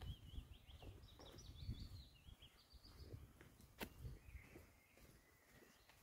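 Faint forest ambience: a small songbird singing a quick run of high, chirping notes for about three seconds, over soft footsteps on a woodland path, with one sharp twig-like click about four seconds in.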